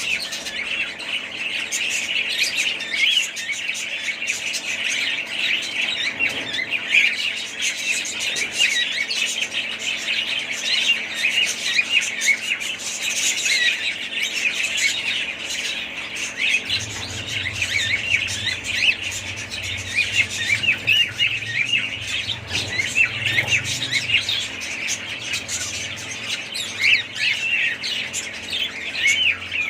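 A flock of budgerigars chattering and chirping continuously, many short overlapping warbles and squawks. A faint low hum joins in about halfway through.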